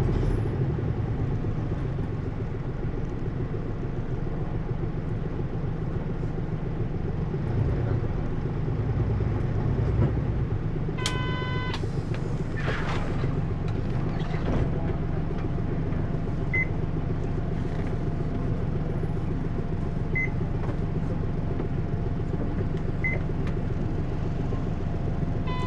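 Interior running sound of a Hino U-HT2MLAA route bus, a bus noted for tending toward abnormal noise: a steady engine and drivetrain rumble. About eleven seconds in comes a short electronic chime, followed by a faint steady whine and a few tiny beeps.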